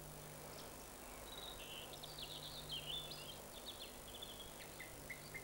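Faint birdsong: a small songbird's quick, high twittering phrases starting about a second in and trailing off near the end, over a steady low hum.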